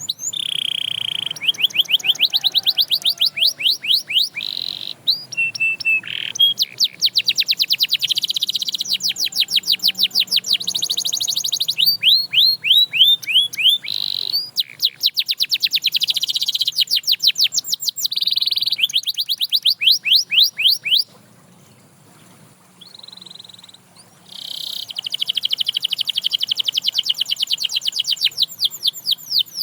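Domestic canary singing in long trills of rapidly repeated sweeping notes, switching to a new repeated note every second or two. The song breaks off about twenty-one seconds in and resumes about three seconds later.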